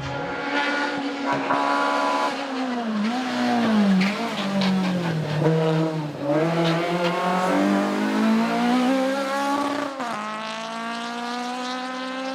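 Race car engine running hard, its pitch repeatedly climbing and dropping as it revs through gear changes and lifts off for corners, with a sudden jump to a new pitch about ten seconds in.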